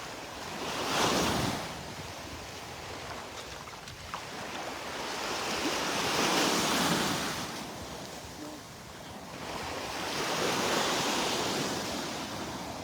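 Small Gulf of Mexico waves breaking and washing up the beach, the surf swelling and fading three times, with some wind on the microphone.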